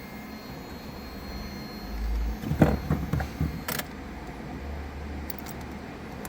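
A car being readied for a cold start: a low rumble, a cluster of knocks and a sharp click about halfway through, then a low steady hum before the engine has fired.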